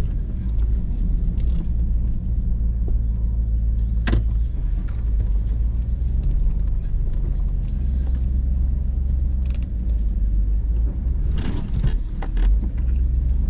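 Hummer H2's V8 engine running low and steady as the truck crawls over rock, heard inside the cab. There is a sharp knock about four seconds in and a cluster of knocks and clicks near the end.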